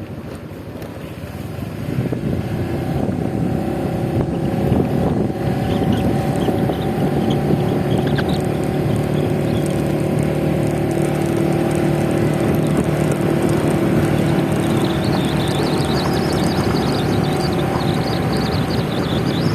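Scooter engine running at a steady speed with wind and road noise, growing louder about two seconds in as it picks up speed, then holding an even pitch.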